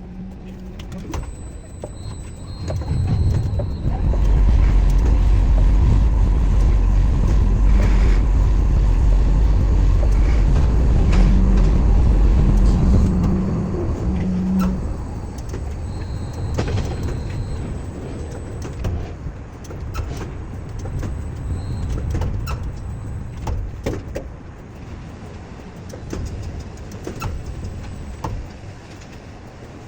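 Heavy machinery running, with a deep rumble loudest from about four to thirteen seconds in, a thin high whine and scattered clicks and knocks, then settling to a lower, uneven running noise.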